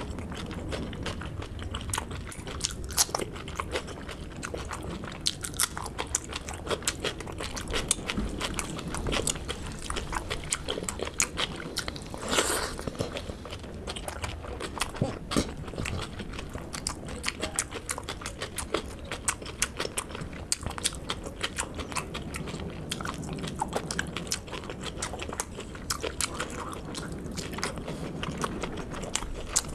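Close-miked chewing and biting of a person eating a curry-and-rice meal by hand, with many quick mouth clicks and smacks throughout. One longer, louder noise comes near the middle.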